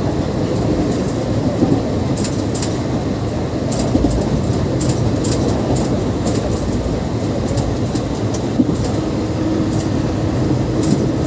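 Steady, loud rumble of a running vehicle, with scattered light clicks and a faint steady hum that sets in near the end.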